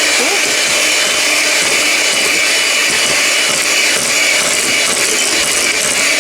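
Electric mixer running steadily on medium speed, beating cake batter, with a constant high whine.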